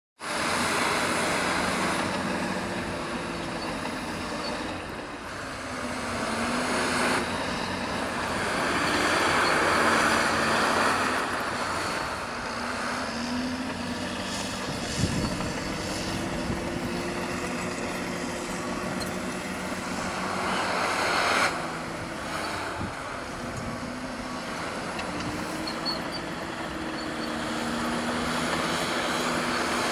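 Caterpillar D6R LGP crawler dozer at work, its diesel engine note rising and falling again and again as it takes load and eases off, over a continuous mechanical noise. A couple of sharp knocks stand out, one about halfway through and one about two-thirds of the way in.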